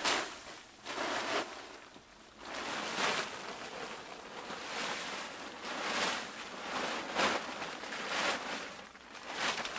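Wood being hand-sawn with slow, even strokes, about one a second.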